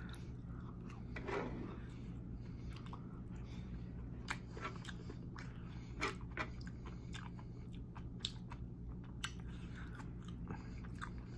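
Close-up chewing and mouth sounds of a person eating basil hoisin chicken with rice, with scattered small wet smacks and clicks.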